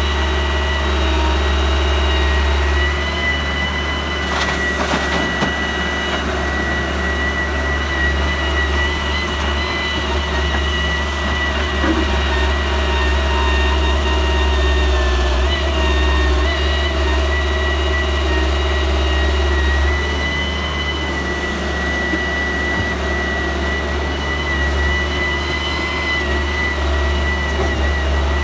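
Diesel engine of heavy earth-moving machinery running steadily, a low rumble with a steady high whine over it.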